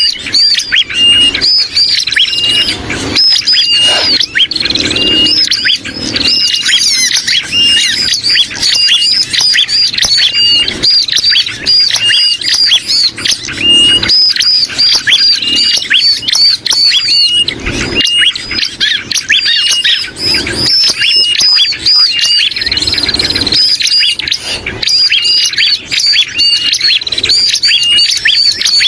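Bird-lure recording of bar-winged prinia calls mixed with noisy alarm chatter and squawking distress calls of sooty-headed bulbuls. Dense, continuous calling, with a short sharp note repeated about once a second under the busy chatter.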